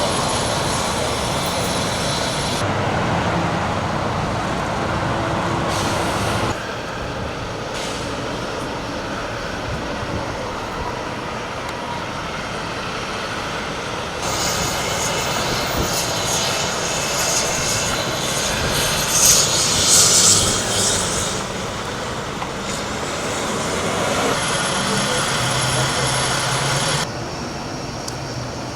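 Steady engine and rotor noise of an air ambulance helicopter running at the scene, cut abruptly between shots several times, with a louder hissing whine for a couple of seconds past the middle.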